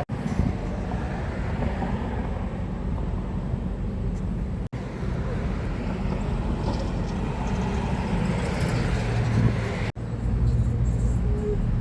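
Steady low vehicle rumble that drops out for an instant three times, with a low hum coming up more strongly near the end.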